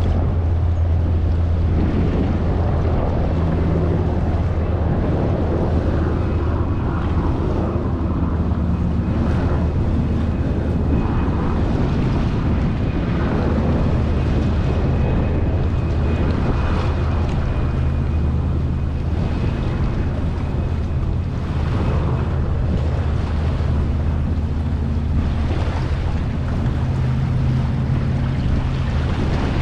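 Strong wind buffeting the microphone and choppy lake water slapping against a fishing kayak in high winds, over a continuous low hum.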